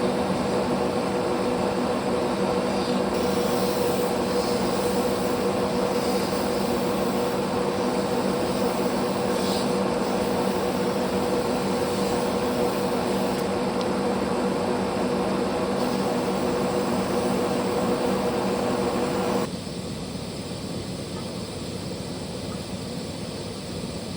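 Metal lathe running steadily with a motor hum while turning the control rod. It shuts off abruptly about three-quarters of the way through, leaving a fainter background hum.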